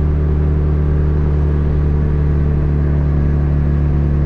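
Honda Civic hatchback's engine running at a steady speed with road noise, heard from inside the cabin while cruising.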